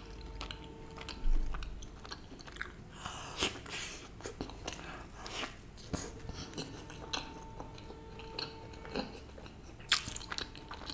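Close-miked chewing and biting of stuffed garlic bread, with many short mouth clicks throughout. There is a louder crunch about a second in and another near the end.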